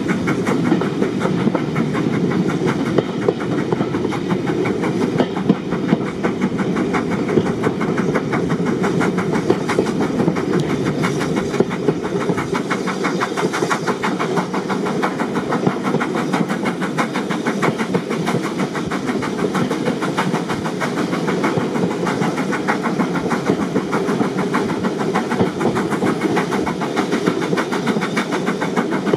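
Steam-hauled heritage train running along the line, heard from a carriage: a steady rumble of wheels on rails with fast, even clicking throughout.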